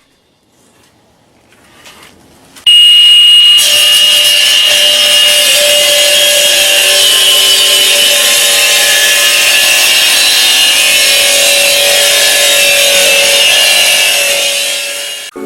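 A power tool cutting brick: it starts suddenly about three seconds in and runs steadily for about twelve seconds, a harsh grinding noise with a steady high whine, then cuts off near the end.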